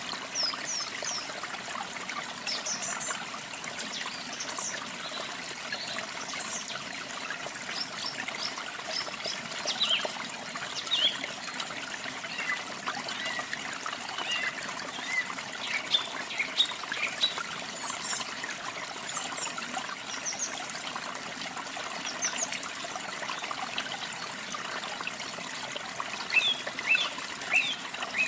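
Water trickling steadily, with small birds chirping in short high calls scattered throughout and bunching together near the end.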